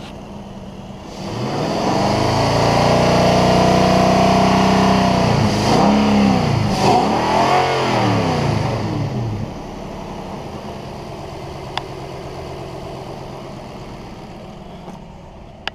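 Nissan Titan 5.6-litre V8 running: idling, revved up and held for about four seconds, dropping back, blipped twice in quick succession, then settling back to a steady idle.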